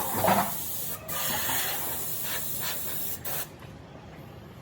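Steady hiss of compressed air, briefly broken about one second and three seconds in, then fainter near the end.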